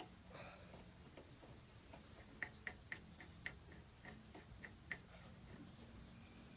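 A faint run of about a dozen light metallic clicks from a wheel wrench as the lug nuts are snugged down on a freshly mounted wheel, with a short high squeak just before the clicks start.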